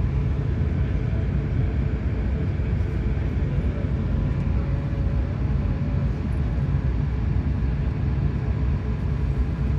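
Steady cabin noise of an Airbus A380 with its Rolls-Royce Trent 900 engines, heard from inside the passenger cabin: an even, loud low rumble of engines and airflow with a faint steady hum above it.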